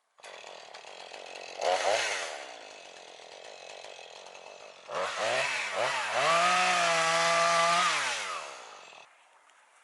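Two-stroke chainsaw blipped briefly about two seconds in, then revved up to a steady high speed about five seconds in, held for a few seconds and let fall back near the end.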